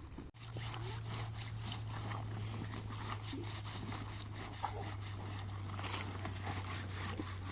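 Rustling, scraping and clicking, as of things being handled, over a steady low hum that starts after a brief dropout about a third of a second in.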